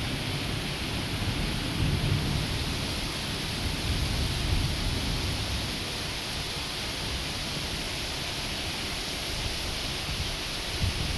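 Steady rain falling, an even dense hiss, with low rumbles swelling about two and again about four seconds in.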